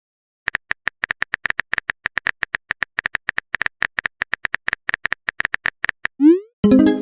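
Rapid clicks of a phone-keyboard typing sound effect, about six to eight a second, as a chat message is typed. Near the end a short rising swoop and a chime follow, a message-sent alert.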